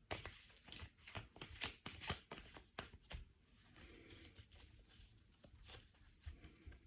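Faint rustling and light irregular clicks of tarot cards being shuffled and handled, busiest in the first three seconds and picking up again near the end.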